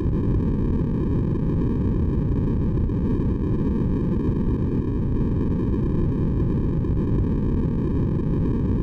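Steady, unbroken white noise for sleep, deep and rushing, with most of its weight in the low range and no change throughout.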